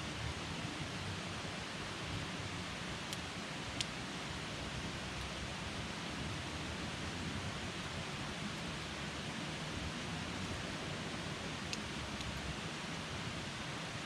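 Wood campfire burning with a steady hiss and a few sharp pops and crackles, the loudest about four seconds in.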